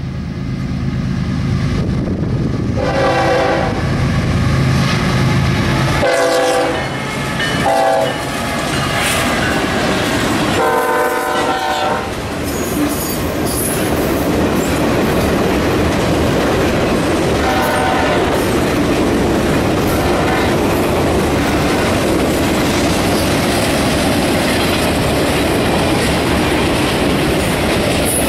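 Norfolk Southern diesel freight locomotive sounding its air horn for a grade crossing: a long blast, two short ones, then another long one, over the rumble of its engine. After that the freight cars roll past with a steady rumble and clickety-clack of wheels over the rail joints, and a brief horn note is heard in the middle of it.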